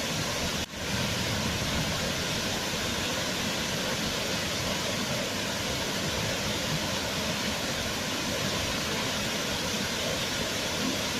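Waterfall: a steady rush of falling water, with a brief dip in level under a second in.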